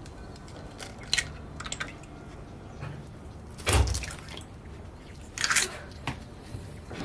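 Scattered small clinks and knocks of dishes and utensils being handled, with a heavier thump about four seconds in and a short scraping rush a little later.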